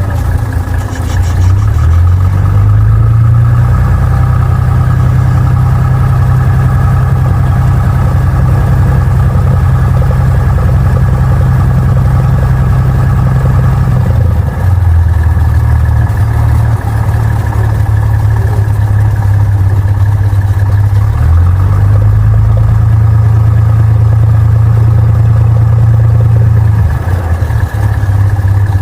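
Cessna 172's engine running, its pitch rising about two seconds in, dropping about halfway through, rising again about two-thirds of the way through and dropping near the end as the engine speed is raised and lowered.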